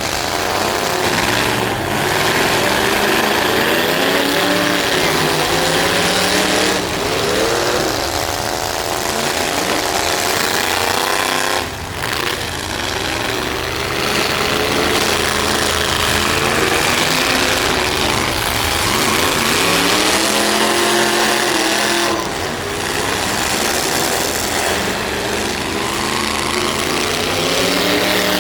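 Demolition derby truck engines revving hard, their pitch rising and falling over and over, with a few sharp knocks.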